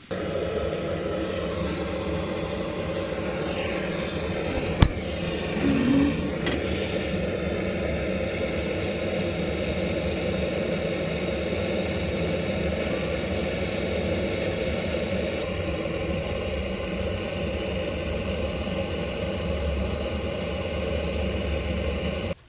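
A steady mechanical running sound, like an engine or motor, holding an even level, with one sharp click about five seconds in.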